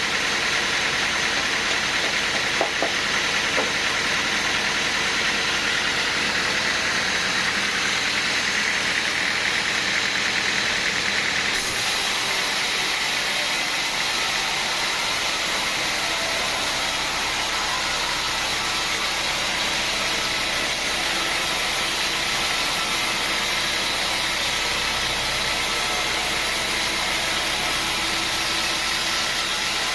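Sawmill machinery running steadily, an engine-driven mill working; the sound shifts abruptly about a third of the way through.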